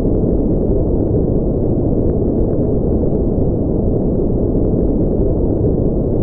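Steady synthetic noise of the kind sold as white noise for sleep, here deep and muffled, a low even rumbling hiss with no highs, unchanging throughout.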